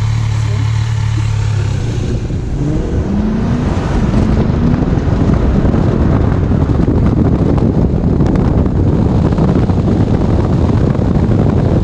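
Dodge Challenger R/T's 5.7 Hemi V8 under a hard acceleration run. It runs steadily at first; about two seconds in the throttle opens and the engine pitch climbs. Then comes a loud, dense rush of engine, wind and road noise at speed.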